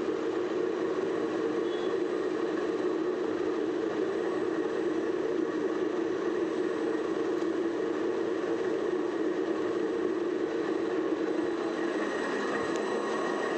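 Electric pump motor running steadily, driven by a repaired 7.5 HP solar pump controller on a test run. A continuous, even running noise with no change in speed.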